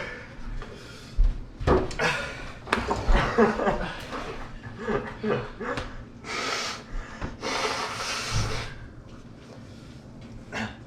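People breathing hard in long hissing exhales, with short voice sounds, as they suffer the burn of very hot peppers.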